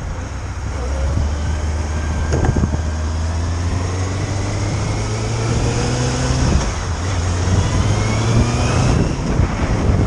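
Motorcycle engine running under way, its pitch rising as it accelerates, with a change in tone about two-thirds of the way through, as at a gear change.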